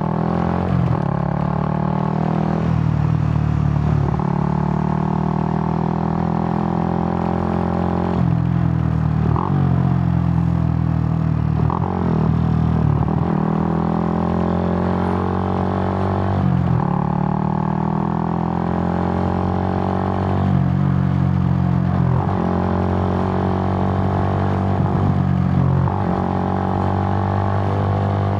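Suzuki GN125's air-cooled single-cylinder four-stroke engine under way, its pitch repeatedly climbing and then dropping as the rider works through the gears, with a few stretches held at a steady speed.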